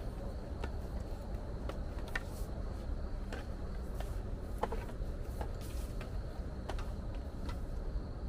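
Irregular sharp clicks and ticks, about one or two a second, over a steady low rumble.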